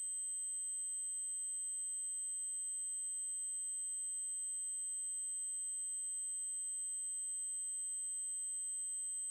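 Continuous 8192 Hz triangle-wave test tone, a single high-pitched note held steady without change.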